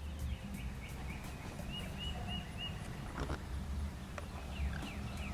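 A bird calling four short, evenly spaced chirps about two seconds in, over a steady low rumble, with a few faint clicks.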